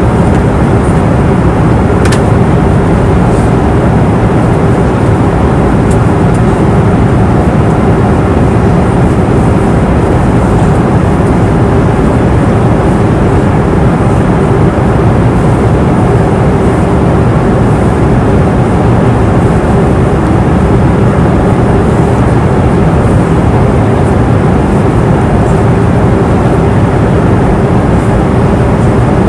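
Airplane cabin noise in flight: a steady, even rush of engine and airflow noise, mostly low, with a constant hum running through it. A faint tick sounds about two seconds in.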